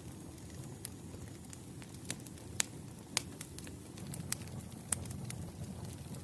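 Wood campfire burning: a low, steady rush of flames with scattered sharp crackles and pops from the firewood, the loudest a little over two and a half and three seconds in.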